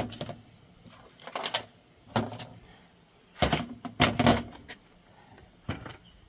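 Small hand tools and metal parts being handled and set down on a workbench: a series of short clicks and clatters coming in about six separate clusters.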